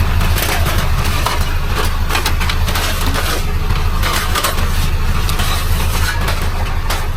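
Vehicle engine running steadily with a low hum, with frequent sharp clattering rattles over it.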